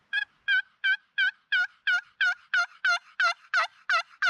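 Wild turkey yelping: a long, even series of about fourteen yelps, roughly three a second, each note dipping in pitch, growing a little louder toward the end.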